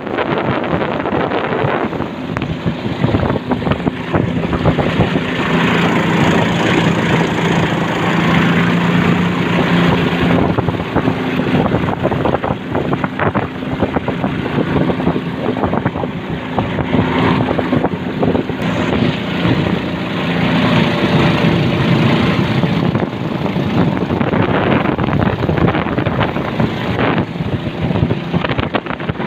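A small motorboat's engine running steadily with a low hum, under heavy wind noise on the microphone; the hum weakens in the last several seconds.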